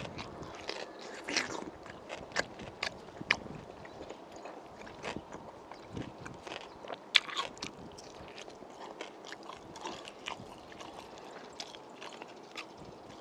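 Close-up chewing and biting of spicy braised pork ribs eaten off the bone, with many sharp clicks and one louder click a little past the middle.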